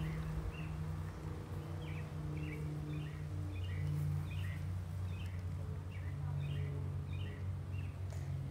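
A small bird chirping repeatedly, short calls two or three a second, over a steady low hum.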